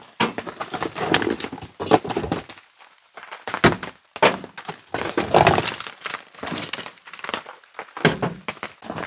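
Camping gear being rummaged through and handled: a run of irregular knocks, clunks and clatters of hard objects being picked up and set down.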